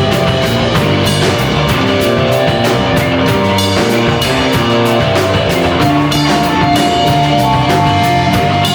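Live rock band playing: guitar notes held over a steady drum-kit beat.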